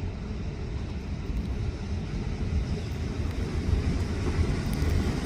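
A motor vehicle's engine and tyres on the road, a steady low rumble that grows slightly louder toward the end.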